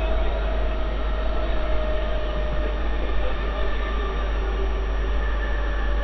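Mumbai suburban electric local train (EMU) running at speed, a steady rumble and rushing noise with a faint whine over it, heard from the open doorway of the moving coach.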